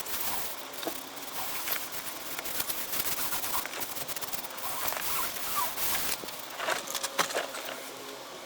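Irregular rustling and crackling of fabric being handled and pressed on, with scattered sharp clicks and a few louder ticks about seven seconds in.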